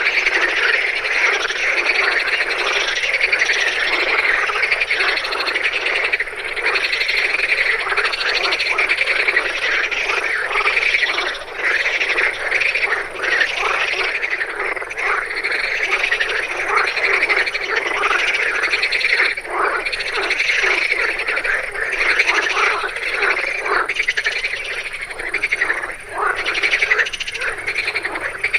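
A dense chorus of many frogs croaking at once, their calls overlapping into a continuous din.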